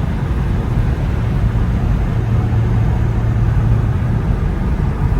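BMW N55 turbocharged straight-six with a straight-piped exhaust, cruising with a steady low drone that holds one pitch and is strongest in the middle.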